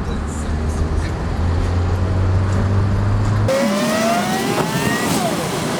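Heavy sub-bass from a car audio subwoofer system playing a bass-boosted track, a steady deep boom. About three and a half seconds in it cuts off abruptly, and a rising whine crossed by a falling one takes over.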